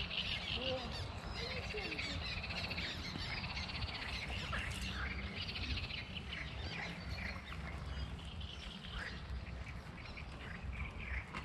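Birds chirping and singing, with many short repeated calls, over a steady low background.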